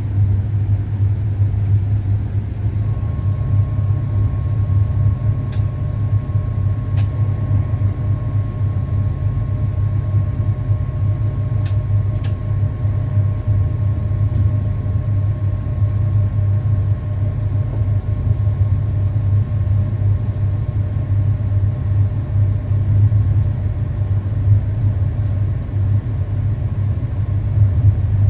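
Electric train running along the track, heard from the driver's cab: a steady low rumble, joined about three seconds in by a faint steady whine, with a few light clicks.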